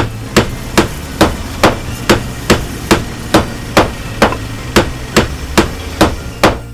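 A hammer striking repeatedly at an even pace, about sixteen blows at two to three a second, over a steady low hum.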